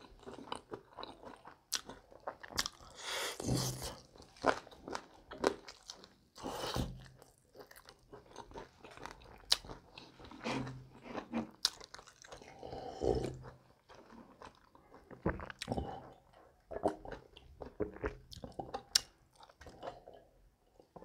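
Close-miked crunching and chewing of spicy fried chicken: irregular bites, chews and wet mouth clicks, with louder crunches about three and a half and six and a half seconds in.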